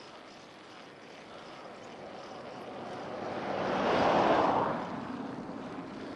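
A motor vehicle passes close by: its noise swells over about three seconds, peaks about four seconds in, then drops away quickly.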